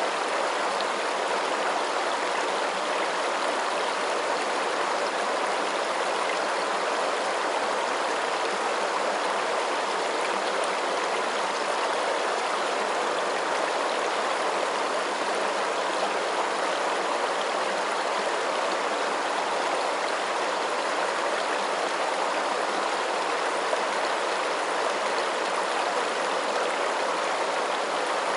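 Running water rushing in an even, unbroken wash, with no drips or splashes standing out.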